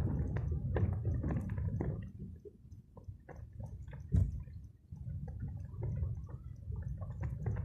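Water splashing and sloshing in irregular bursts over a low rumble of wind on the microphone, with a single sharp knock about four seconds in.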